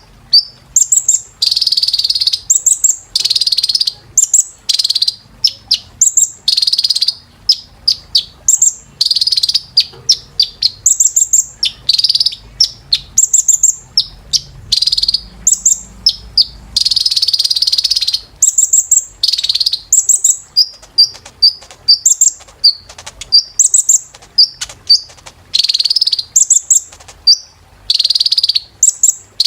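Kolibri ninja sunbird singing: rapid, high-pitched chirps and trills in quick bursts with short gaps, mixed with a few longer buzzy phrases.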